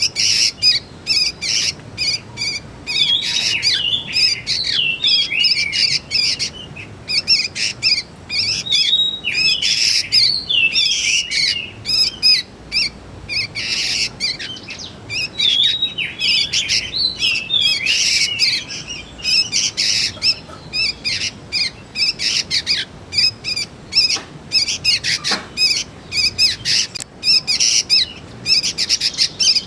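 Young sooty-headed bulbuls (kutilang) calling: a dense, unbroken run of short high chirps.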